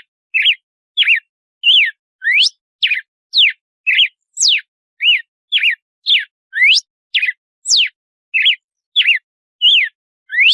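Red-cowled cardinal (galo-de-campina) singing its 'açoite' whip song: a steady series of short whistled notes, nearly two a second, alternating sharp rising sweeps, falling sweeps and arched notes, with clean gaps between them.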